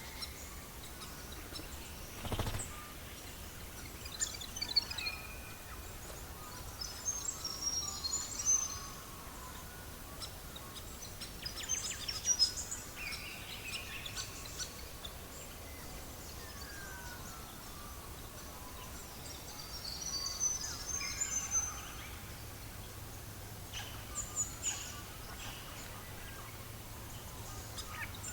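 Birds chirping in short high phrases every few seconds over a steady low hiss, with a single sharp pop a couple of seconds in.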